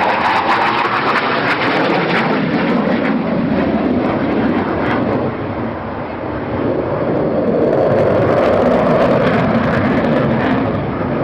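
Aircraft flying past, its engine roar loud and continuous, easing briefly about halfway through and then swelling again before fading a little near the end.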